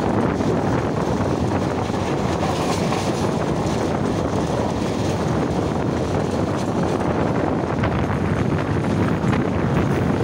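Train running at speed, heard from inside at an open window: a steady rumble of the running train mixed with rushing wind on the microphone.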